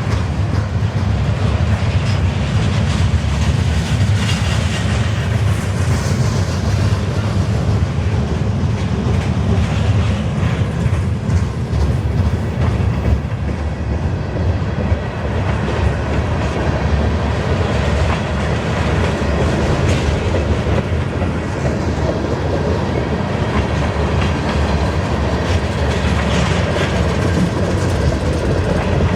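CN freight train's cars rolling steadily past on the rails, wheels on track making a continuous, loud rumble.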